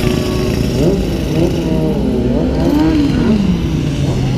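Sport-motorcycle engines revving, their pitch rising and falling, over a steady idle.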